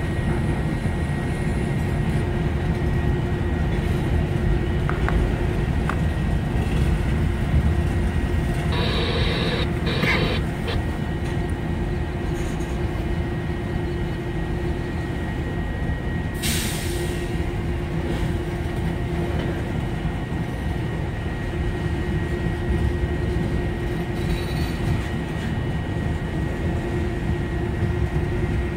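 Freight cars, boxcars and then tank cars, rolling past close by: a steady low rumble of wheels on rail with a thin steady tone over it. Two short higher sounds come about nine and ten seconds in, and a brief hiss about midway through.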